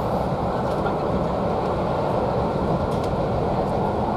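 Steady running noise of a railway carriage moving along the track, heard from inside the coach.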